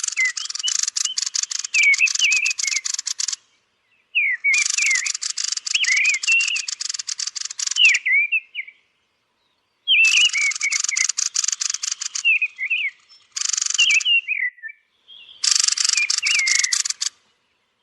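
Thrushes giving their roosting calls: thin, high chirping notes repeated in runs of a few seconds with short breaks. Each run sits over a loud hissing crackle that starts and stops with it.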